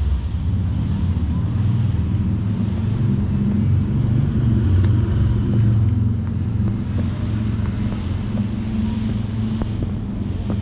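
Harley-Davidson Street 750's liquid-cooled V-twin running through a Vance & Hines slip-on exhaust, a deep, fairly steady engine note that swells slightly around the middle.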